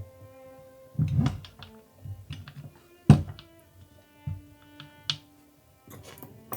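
Soft background music with held notes, over a few sharp clicks and knocks of small model-kit parts being handled and set down, the loudest a little past halfway.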